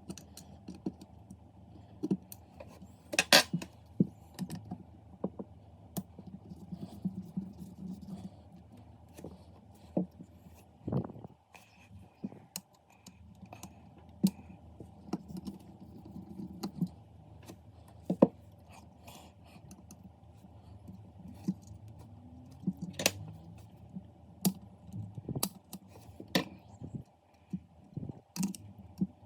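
Irregular clicks, taps and clinks of small hard objects being handled, with a few louder knocks, over a low steady hum.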